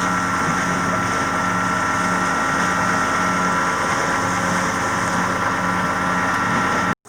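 Steady drone of machinery running aboard a sailboat, a low hum pulsing regularly under a steady whine, like an engine idling; it cuts off abruptly just before the end.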